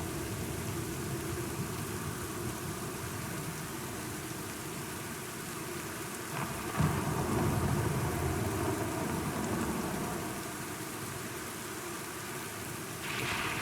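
Steady rain with a roll of thunder that breaks in sharply about seven seconds in and rumbles for a few seconds before fading back into the rain.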